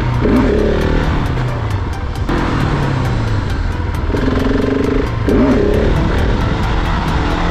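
Motorcycle engine revving and dropping back under a rider's throttle, its pitch swinging quickly down and up twice, about half a second in and again near five and a half seconds, with steady wind noise over the microphone.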